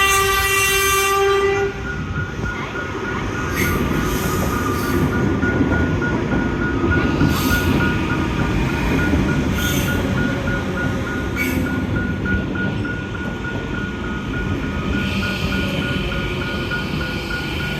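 A train horn sounds and stops just under two seconds in. A train then passes with a heavy rumble and a few sharp clanks, while the level-crossing bells ring on in an even, rapid beat.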